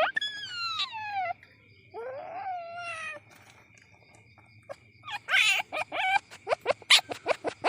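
Young palm civet (musang) calling: two long whining cries that glide down in pitch in the first three seconds, then, from about five seconds in, a quick run of short clicking chirps.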